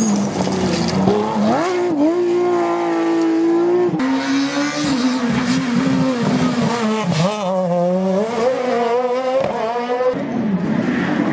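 Rally car engine at high revs, its pitch climbing and then dropping sharply at gear changes, about 2 and 4 seconds in, before rising and falling again.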